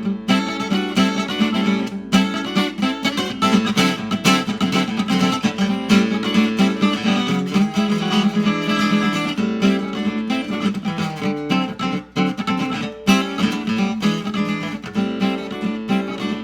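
Solo guitar playing an instrumental break of a rockabilly tune, with quick, busy strumming and picking and no band behind it.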